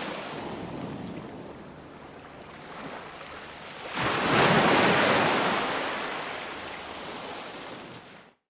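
Ocean waves on a shore. A wash fades out, then a wave breaks suddenly about four seconds in and rushes in, slowly dying away. The sound cuts off abruptly near the end.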